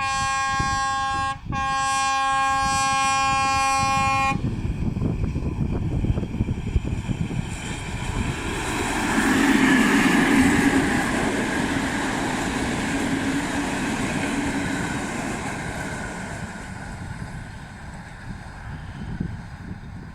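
ST44 diesel locomotive sounding its horn, a short blast and then a longer one of about three seconds. The locomotive and its train then pass, the rumble swelling to its loudest about ten seconds in and slowly fading away.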